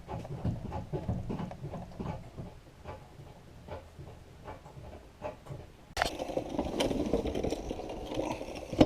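Scattered metallic clicks and knocks of hand-tool work, then about six seconds in a small power tool starts and runs steadily.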